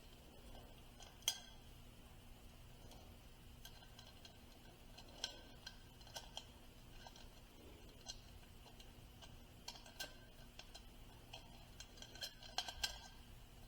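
Faint, scattered clicks and clinks of small hard parts being handled. One sharper click comes about a second in, and a quick run of them near the end, over a low steady hum.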